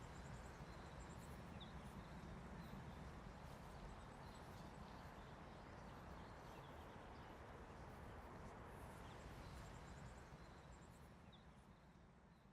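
Faint outdoor ambience: a steady hiss with a few small bird chirps, fading out near the end.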